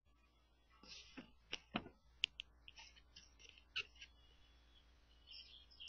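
Faint scattered clicks and short high chirps, then birds chirping more steadily from near the end.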